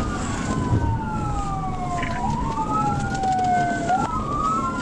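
Police car siren wailing in slow rise-and-fall sweeps, with a second wail overlapping out of step, over the rumble of a cruiser driving at speed in pursuit.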